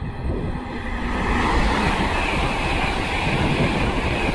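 GWR Class 802 bi-mode express train passing through a station at speed: a rushing of air and wheel-on-rail noise that builds over about the first second and then holds steady. The speaker hears it as the air cutting in front of the train.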